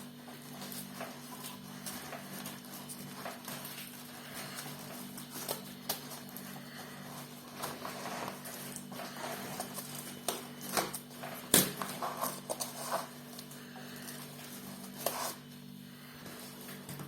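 Scattered light clicks and knocks from a refrigerator's doors, shelves or drawers being handled, with one sharper knock about eleven and a half seconds in, over a steady low hum.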